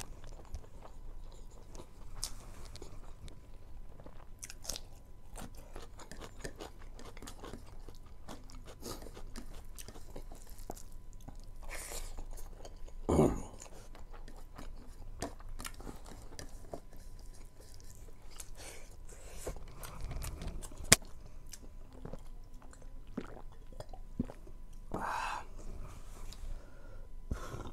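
A person chewing mouthfuls of rice and buffalo meat eaten by hand, close to the microphone, with many small mouth clicks throughout. There is a brief louder sound about 13 seconds in and a sharp click around 21 seconds.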